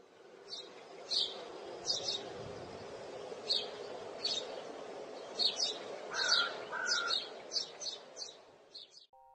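Small birds chirping in short, high notes, irregularly spaced and sometimes several a second, with two lower whistled notes about six and seven seconds in, over a steady low background hum. The sound fades in at the start and fades out near the end.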